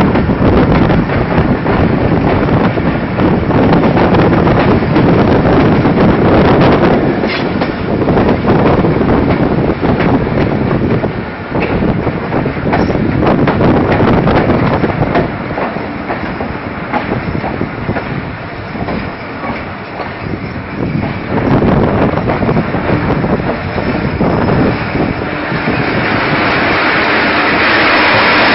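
Passenger train coach rolling into a station, heard from its open doorway: a steady rumble with wheels clicking over the rail joints as it slows. A louder hiss builds in the last few seconds.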